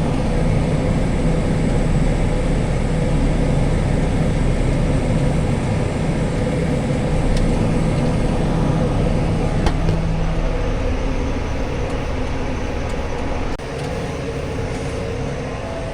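Case IH Maxxum 150 tractor running steadily at road speed, towing a discbine mower. The engine's steady drone lightens about two-thirds of the way through as the tractor eases off.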